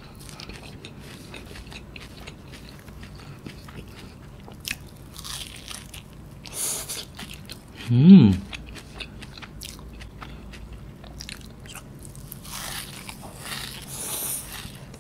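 Close-miked eating of cheese kunafa: wet chewing, lip smacks and small crunches of the shredded pastry. About eight seconds in comes the loudest sound, a short hummed "mm" that dips and rises in pitch, and near the end there are sucking and licking sounds from the fingers.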